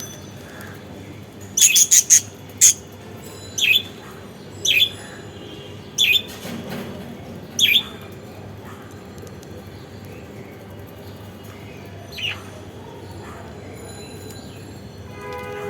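Budgerigars chirping in short, sharp calls. A quick cluster of four comes about two seconds in, single chirps follow about once a second for several seconds, and one more comes later after a pause.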